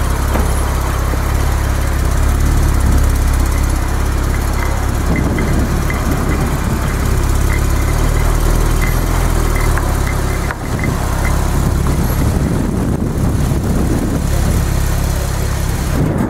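Porsche 991 Turbo S's twin-turbo 3.8-litre flat-six idling steadily with a deep, even rumble.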